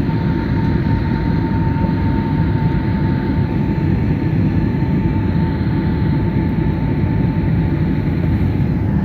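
Jet airliner cabin noise: a steady low rumble of engines and airflow with a thin, steady whine above it.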